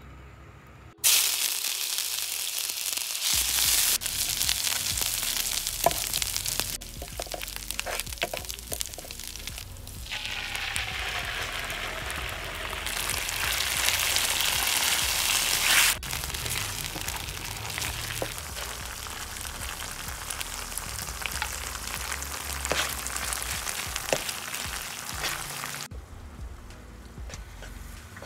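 Paste and sauce sizzling in hot oil in a non-stick frying pan while being stirred with a wooden spatula, with scattered light ticks of the spatula against the pan. The hiss starts suddenly about a second in, jumps in strength at several abrupt cuts, and is quieter near the end.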